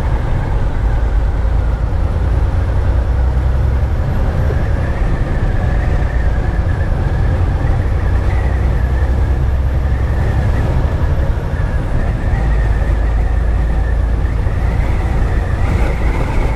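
Semi truck driving at highway speed, heard from inside the cab: a steady loud low drone of engine and road noise with a rushing haze over it and a faint steady high whine.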